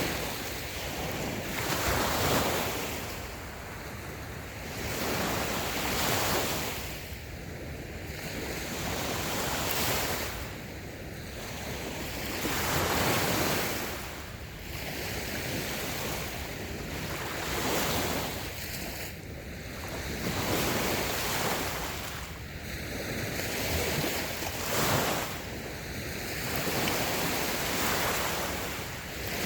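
Small, light sea waves breaking and washing up a sandy beach. A soft rush swells and fades every two to three seconds.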